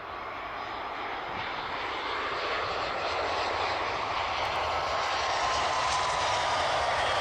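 Jet airliner engines running, a steady roar growing louder with a whine that slowly falls in pitch.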